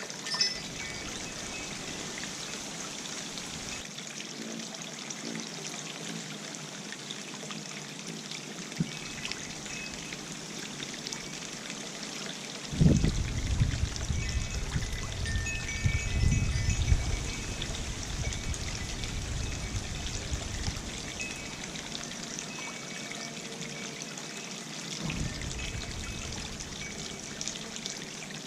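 Birdbath fountain water trickling and splashing steadily. Gusts of wind rumble on the microphone about halfway through and again near the end.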